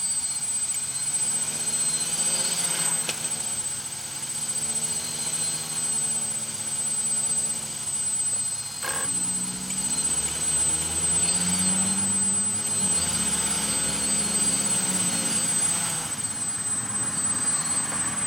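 DJI F550 hexacopter's six electric motors and propellers buzzing in flight. Their pitch keeps wavering up and down as the speeds change, in a flight the owner calls wobbly and hard to hold in position.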